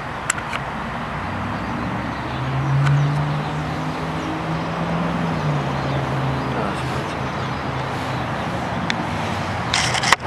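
Road traffic: a steady rush with a vehicle's engine hum that swells and fades again about two to five seconds in, and a sharp click near the end.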